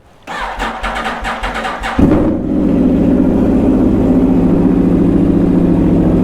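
Aprilia RSV4's V4 engine being started: the starter cranks for about a second and a half, then the engine fires with a sudden loud jump and settles into a steady idle.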